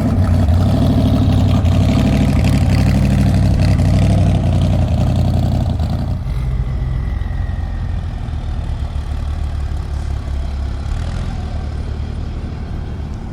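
Truck engine running, loud and deep for about the first six seconds, then dropping to a quieter rumble.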